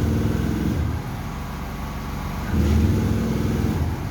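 Boat diesel engine running. Its sound swells and drops every two and a half seconds or so, with a loud stretch at the start and another from a little past halfway to near the end. The owner says the engine's valve setting and cylinder head are badly damaged.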